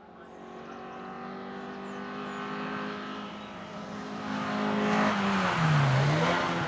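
Race car engine at full throttle on a hill climb run, growing steadily louder as it approaches. About five seconds in it is at its loudest, with tyre and exhaust noise, and the engine note drops and then climbs again.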